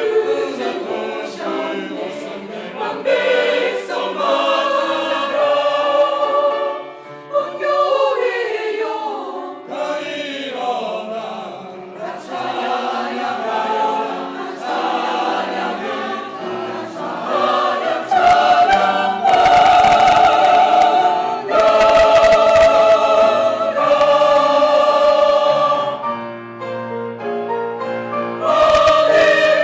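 Church choir singing a Christmas cantata in held, sustained notes, growing louder about eighteen seconds in and easing off near the end.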